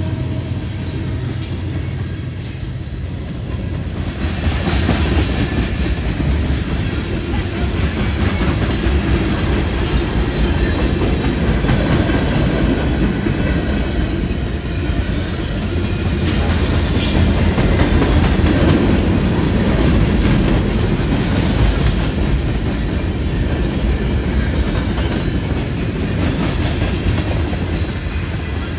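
A train rolling past, its wheels clicking steadily over the rail joints over a continuous low rumble. It grows louder about four seconds in.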